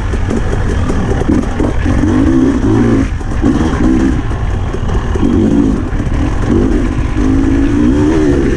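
Husqvarna TE300i two-stroke dirt bike engine being ridden hard, its revs climbing and dropping back several times in a row as the throttle is opened and closed.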